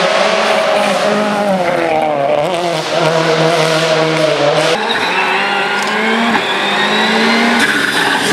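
Rally car engine at high revs, its pitch dipping and climbing as the driver lifts and gets back on the throttle. About five seconds in the sound changes abruptly to a steadier engine note, likely a different car or camera position.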